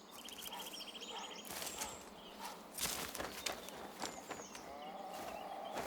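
Grey heron nesting colony: a fast rattling call about a second long at the start, thin high chirps, sharp clacks scattered through, and a harsh rasping call near the end.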